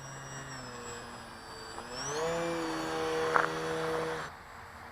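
Electric motor and propeller of a small RC aerobatic Pitts biplane in flight, a steady whine that climbs in pitch about two seconds in as the throttle is opened, holds, then drops off near the end.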